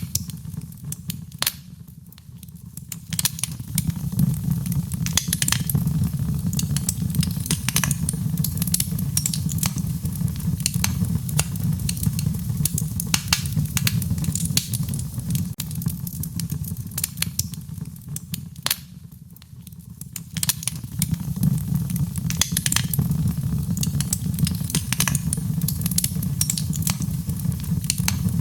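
Wood fire burning in a fireplace: dense crackles and sharp pops over a steady low rumble of flame. The crackling thins out briefly twice, about two seconds in and again just before the twenty-second mark.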